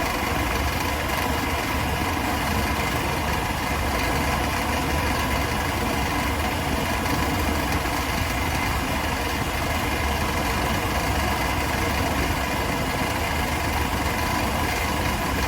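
Walk-in cooler condensing unit running with its newly replaced condenser fan motor, a steady even hum.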